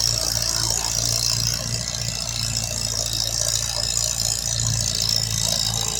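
A vehicle engine idling steadily with a rattle, its low rumble pulsing unevenly.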